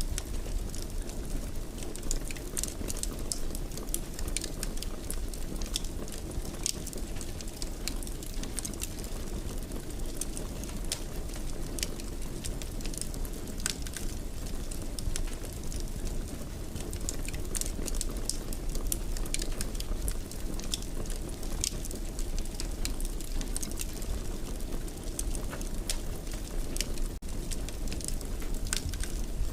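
Fire crackling in a fireplace: a steady low rumble of the flames with frequent sharp, irregular pops and snaps.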